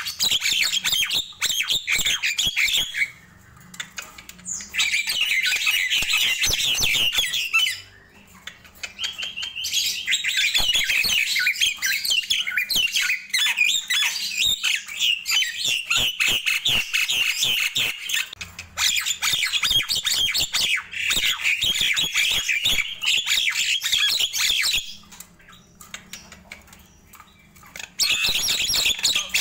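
Nias hill myna calling in long runs of rapid chattering and squawking notes with sharp clicks, broken by three brief pauses.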